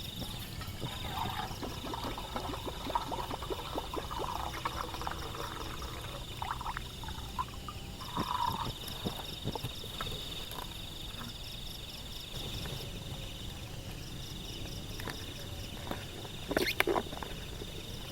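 Insects trilling steadily in a high, pulsing chorus. Scattered clicks and knocks come through, with a louder cluster of knocks near the end.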